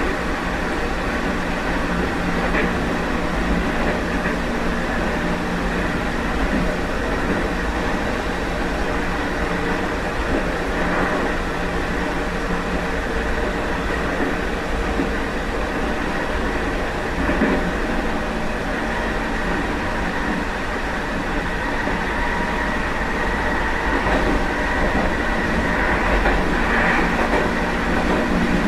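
Meitetsu 1030 series limited-express train running at steady speed, heard from the vestibule: an even rumble of wheels on rail with faint steady tones and a few faint knocks.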